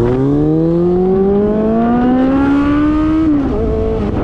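Suzuki GSX650F inline-four engine through a new aftermarket exhaust, accelerating under way: its pitch climbs steadily for about three seconds, then drops and holds steady near the end, as at an upshift. Wind noise runs underneath.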